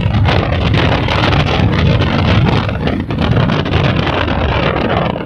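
Hero Glamour single-cylinder motorcycle riding along a road, engine running steadily under heavy wind buffeting on the phone's microphone.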